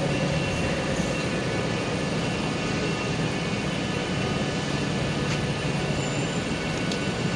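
CrossCountry diesel train coming in to a station platform, a steady running hum with faint tones and a couple of light clicks near the end.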